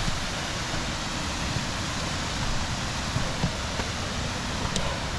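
Small waterfall rushing into a rock basin, a steady even hiss of falling water.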